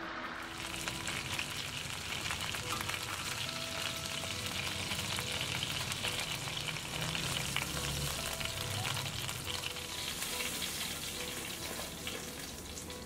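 Food sizzling as it fries in a hot pan: a steady crackling hiss that starts about half a second in.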